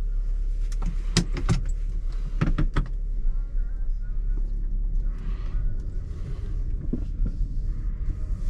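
Inside a car: a steady low hum with a cluster of sharp clicks and knocks about a second in and another around two and a half seconds in, the sort of handling noises made in a car's cabin, such as keys, a door or a seatbelt.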